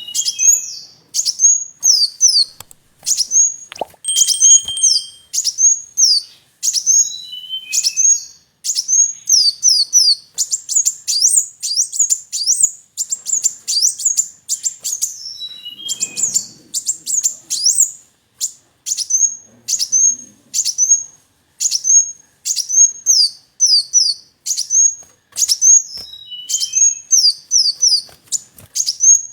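A kolibri wulung sunbird singing full song: quick strings of high, sharp notes that slide downward, repeated in short bursts with brief gaps, now and then dropping to a few lower chips.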